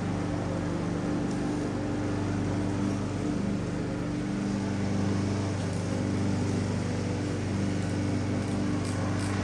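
Steady hum of a running motor or engine, one unchanging pitched drone.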